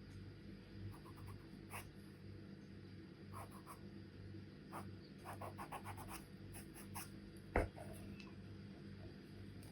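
Charcoal pencil scratching on paper in short strokes that come in small clusters. One sharp tap, the loudest sound, comes about seven and a half seconds in.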